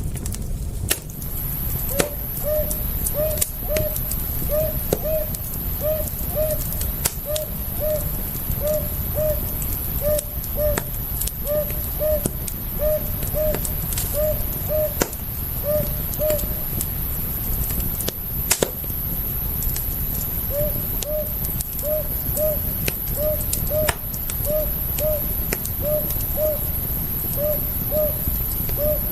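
Campfire crackling with scattered sharp pops over a low, steady rumble. Through it a bird calls in short, repeated paired notes; the calls pause for a few seconds midway, then start again.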